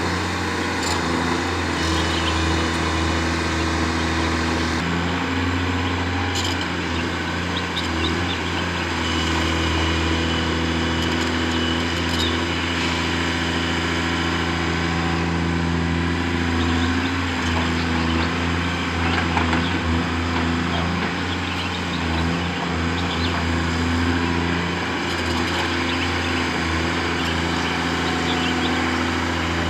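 Engine of a construction vehicle running steadily at a constant speed, with a few faint clicks and knocks over it.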